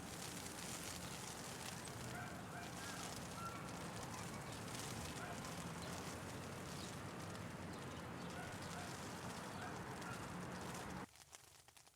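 Steady hiss of a hail-and-traffic ambience, with short, high honks repeating in small groups over it. The sound cuts off abruptly near the end.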